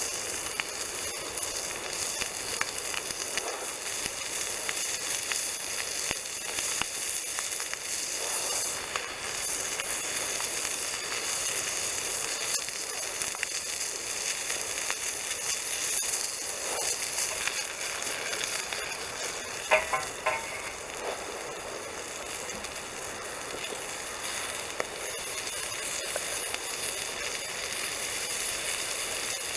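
Bacon and sausages sizzling steadily in a frying pan over a campfire, with a short clink about two-thirds of the way through.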